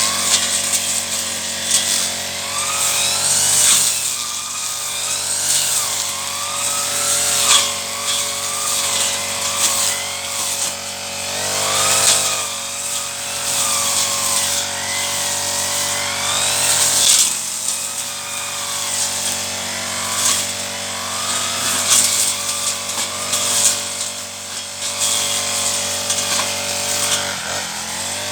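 Petrol brush cutter running and cutting through weeds. Its engine note wavers up and down as the cutting head meets and clears the growth.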